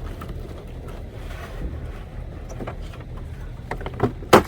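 Low wind rumble on the microphone, with a few light knocks of handling and one sharper knock near the end.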